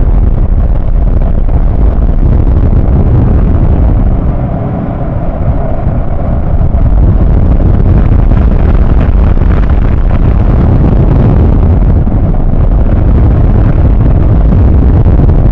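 Automatic conveyor car wash equipment heard from inside the car: a loud, steady rush and rumble of powerful jets or air blowers against the car body, easing briefly about four to six seconds in.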